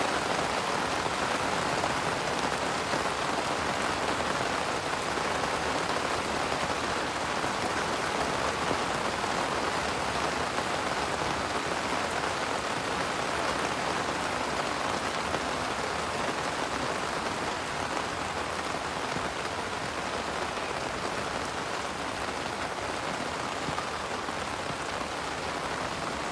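Steady rain falling on leaves, an even patter that eases slightly toward the end.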